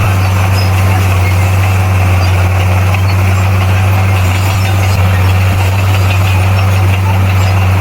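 Bulldozer's diesel engine running steadily at a constant low pitch, with no change in speed.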